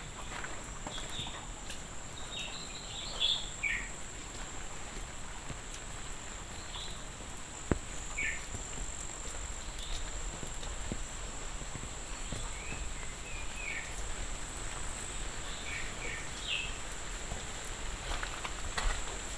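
Insects keeping up a steady high-pitched drone, with short bird chirps scattered through it and a faint patter of rain beneath.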